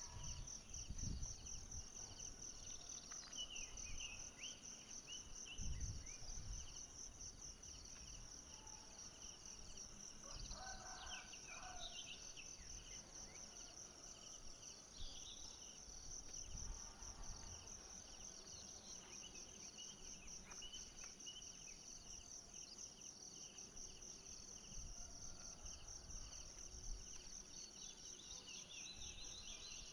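Steady high-pitched insect chorus trilling in a finely pulsed rhythm, with short chirping calls now and then and irregular low rumbles.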